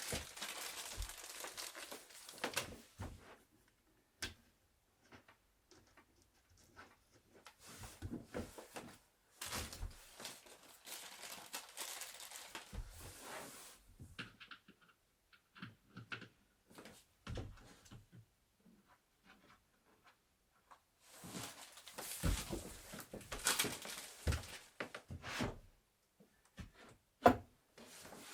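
Handling of wooden bed parts in a small room: stretches of scraping and rustling, with scattered light clicks and one sharp knock near the end.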